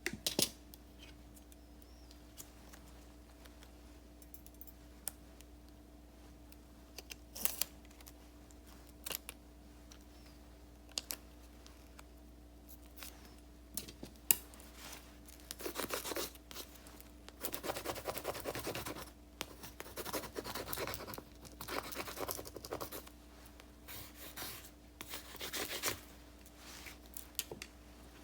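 Paper and stickers being handled, with a few sharp taps and clicks, then from about halfway a run of scratchy scissor snips and rubbing through paper.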